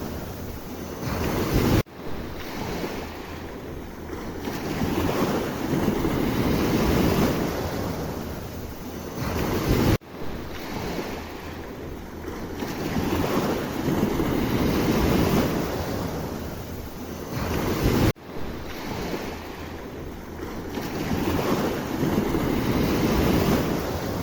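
Sea waves washing in and drawing back, each surge swelling and fading over several seconds, with wind rumbling on the microphone. The sound cuts off abruptly and restarts three times, about eight seconds apart.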